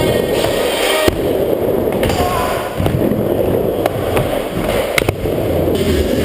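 Skateboard wheels rolling on a ramp with a steady rumble. Sharp clacks of the board striking the surface come about a second in and a couple of times around five seconds in.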